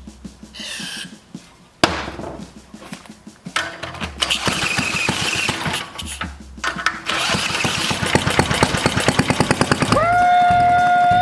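1949 Briggs & Stratton WI single-cylinder engine being spun over with a drill, choked, as it tries to start: bouts of rapid cranking and firing with a brief pause in the middle, and a steady whine near the end.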